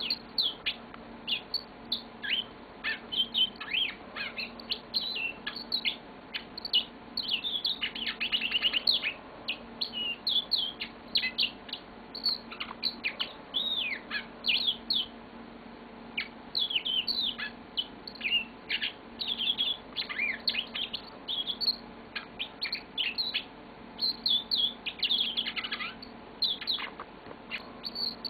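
Yellow-fronted canary singing a long, rambling song of quick chirps, trills and down-slurred notes, broken only by a couple of short pauses.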